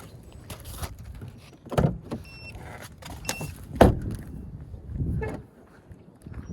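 Handling noise with several knocks and thumps, the two loudest about two seconds apart, and rustling in between.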